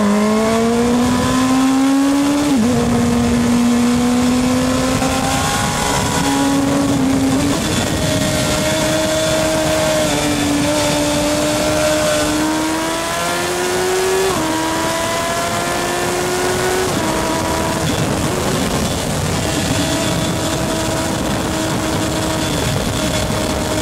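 Racing motorcycle engines running hard through the gears. Each climb in pitch drops back at a shift, every few seconds.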